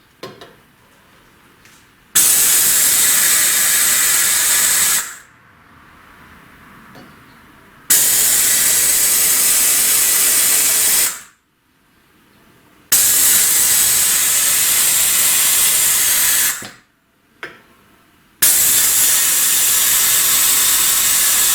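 Valve vacuum tester hissing in four separate bursts of about three to four seconds each, as it draws a vacuum on the cylinder head's ports one after another to check how well the valves seal.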